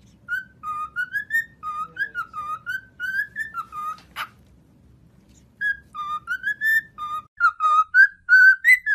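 Pet parrot whistling a tune in quick short notes, each sliding up or down. The phrase is broken by a sharp click midway and a short pause, then the whistling resumes.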